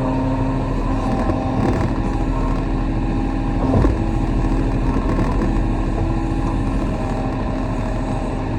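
Kobelco SK35 mini excavator's diesel engine running, with a brief louder knock a little under four seconds in.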